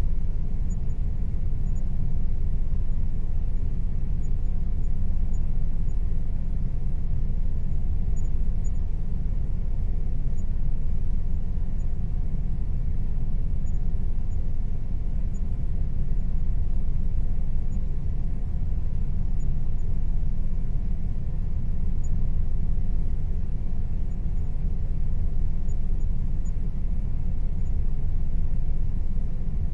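Air conditioner running steadily: an even low rumble with a faint steady tone above it.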